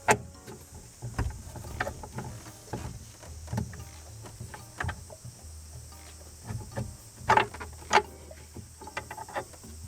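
Irregular clicks and knocks, a few louder clanks about seven and eight seconds in, over a low steady hum: tools and metal parts being handled.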